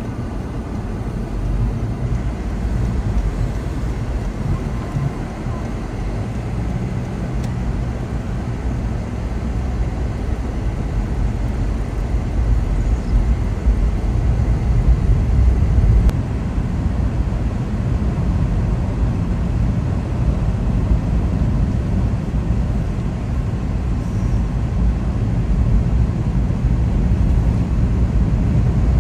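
A car driving, heard as a steady low rumble of road and engine noise that swells slightly about halfway through.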